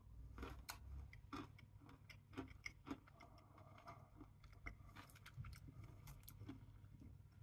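Faint, irregular crunching clicks of a person chewing a Daim bar with a hard, crunchy caramel centre.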